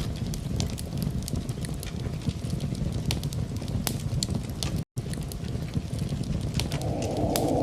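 Wood fire crackling in a fireplace: irregular sharp pops and snaps over a low steady rumble. The sound cuts out for an instant about five seconds in, and near the end a rushing noise like wind swells in.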